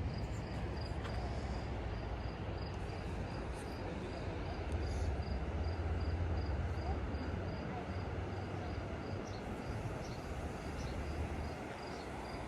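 A cricket chirping in a steady even rhythm, about two to three high chirps a second, over a constant low rumble and hiss.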